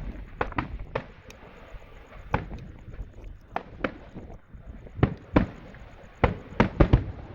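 Aerial fireworks shells bursting: about a dozen sharp bangs at uneven intervals, the loudest coming in a quick cluster near the end.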